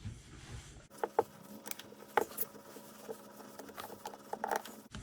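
Irregular light clicks and taps of small metal parts being handled and fitted on a pressure washer pump, starting about a second in.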